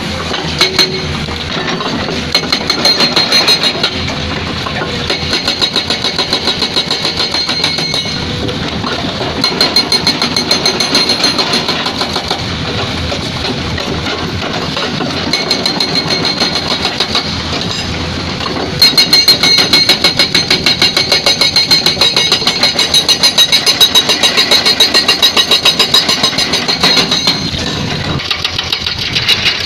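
Excavator-mounted hydraulic breaker hammering rock in several bursts of rapid, even blows over the excavator's running diesel engine. The longest and loudest run of blows comes in the second half and lasts about eight seconds.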